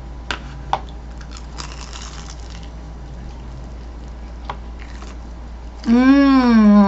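Biting into and chewing a fried egg roll dipped in duck sauce: a few sharp crunchy clicks and a short crackly stretch. Near the end, a loud, long hummed "mmm" with a wavering pitch.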